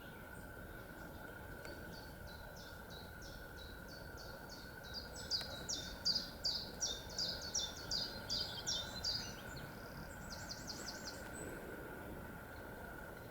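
A songbird singing a long series of repeated high, short notes, about three a second, growing louder through the middle, followed by a shorter, quicker run of notes.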